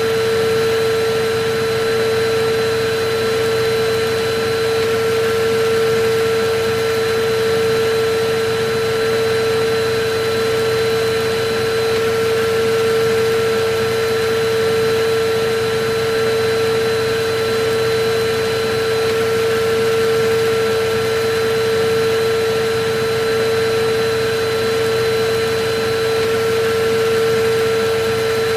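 Electric vacuum cleaner running steadily: an even rush of air with a strong, steady motor whine and fainter higher tones above it.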